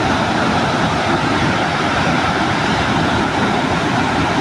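Steady rushing noise of Victoria Falls, the water's roar and blowing spray, with no breaks.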